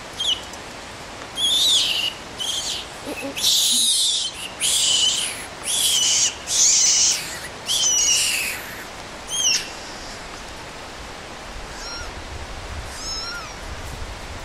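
A bird calling: a run of about a dozen loud, harsh high calls, each ending in a falling note, over the first nine seconds or so, then fainter high chirps near the end.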